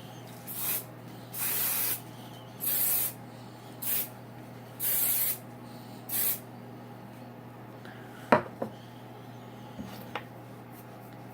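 Aerosol hairspray sprayed in six short hissing bursts, setting a finished wavy hairstyle. A couple of seconds later comes one sharp click, followed by a few fainter clicks.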